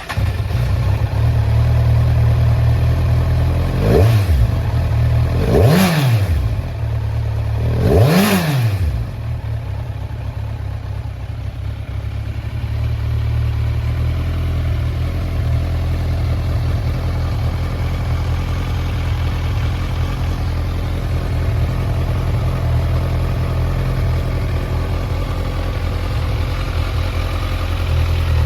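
A 2016 Kawasaki Z1000's inline-four engine catches right at the start, then is blipped three times, each rev rising and falling quickly. It then settles into a steady idle.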